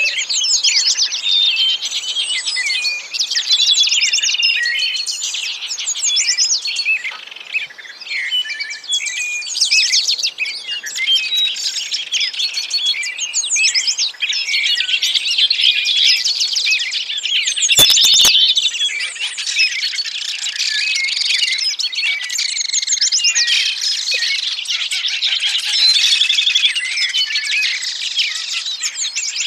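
Small songbirds chirping and trilling without pause, several calls overlapping in a dense chorus. A brief sharp click cuts through about two-thirds of the way in.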